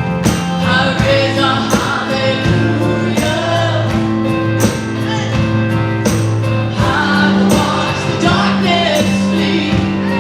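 Live worship band playing with group singing: sustained bass notes, a steady drum beat and voices singing.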